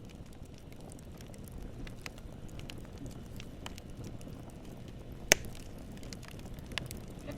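Wood burning in a campfire: a low, steady rush of flame with scattered crackles, and one loud snap of wood popping about five seconds in.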